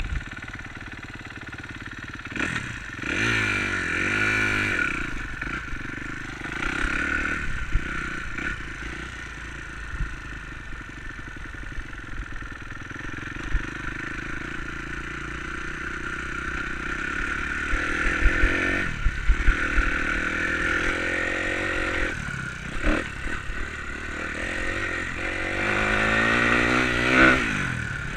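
Enduro motorcycle engine running and revving up and down again and again, its pitch rising and falling with each burst of throttle, with scattered knocks and rattles.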